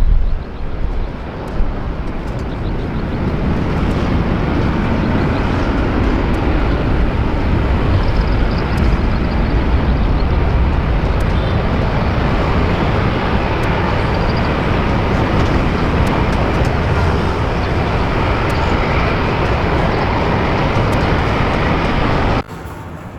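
Jet airliner engine noise, a loud steady rushing sound with a deep rumble underneath. It cuts off suddenly near the end.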